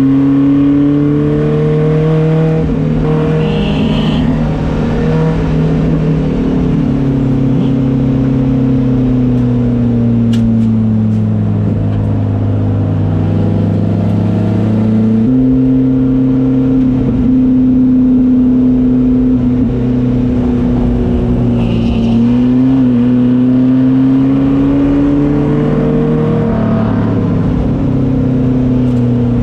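Car engine running hard on track, its pitch climbing and falling with speed. There is a sudden jump in pitch about halfway through and another shift near the end, as with gear changes.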